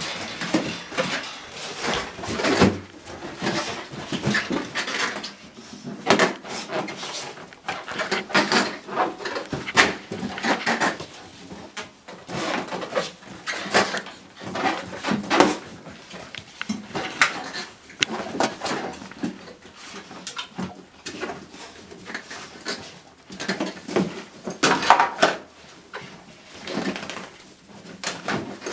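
Papillon puppy playing with a balloon: a busy, irregular run of bumps, scuffs and rubbing sounds, with occasional small dog noises.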